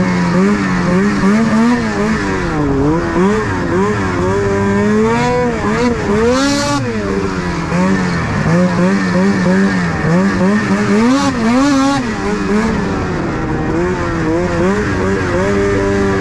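Ski-Doo 600 RS race snowmobile's two-stroke twin engine revving hard under load, its pitch rising and falling again and again as the throttle opens and closes through corners and jumps.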